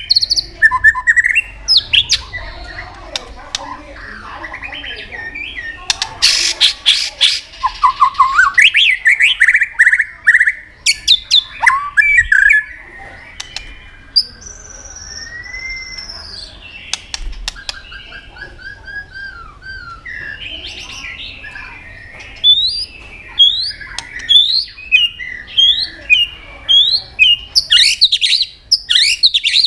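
White-rumped shama singing a long, varied song of clear whistles, slurred glides and trills, mixed with harsh, scratchy chattering notes. A run of quick rising whistles comes near the end.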